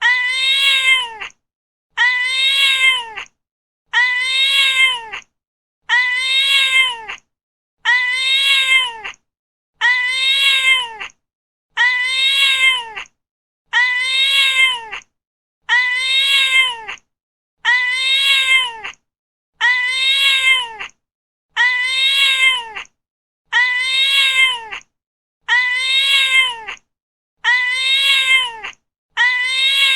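Domestic cat meowing: the same drawn-out meow repeated about every two seconds, each one rising then falling in pitch.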